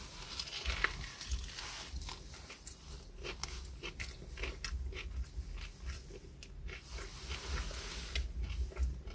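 Biting into and chewing a KFC spicy fried chicken sandwich, with scattered crunches from the crispy breaded chicken.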